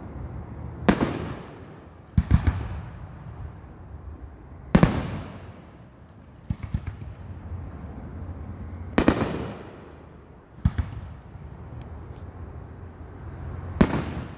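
Aerial firework shells bursting: four loud booms roughly four seconds apart, each trailing off in a rolling echo, with smaller pops and cracks in between.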